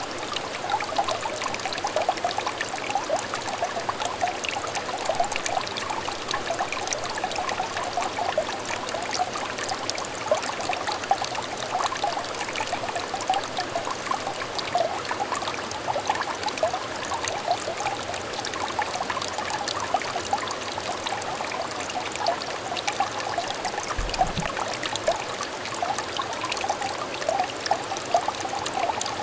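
A small, shallow stream trickling steadily, full of quick little gurgles.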